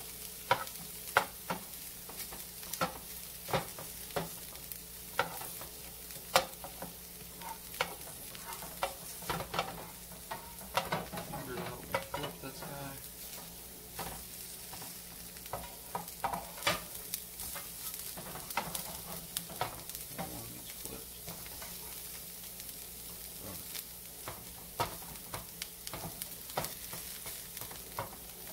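Comb tooth mushrooms (Hericium coralloides) frying in butter in nonstick skillets with a steady sizzle, browning. A wooden spatula stirs and scrapes them around the pan, making frequent irregular clicks and taps against it.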